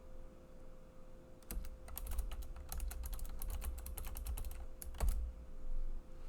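Computer keyboard typing: a fast run of key clicks starting about a second and a half in, ending with a louder keystroke about five seconds in.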